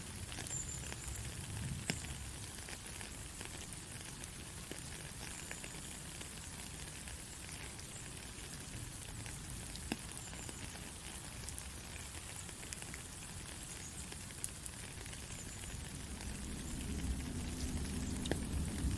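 Steady heavy rain, an even hiss with occasional sharp drop clicks. A low rumble builds near the end.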